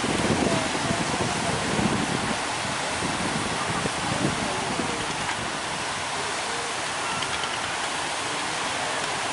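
Heavy ocean surf breaking in a steady rush of noise, with wind gusting on the microphone.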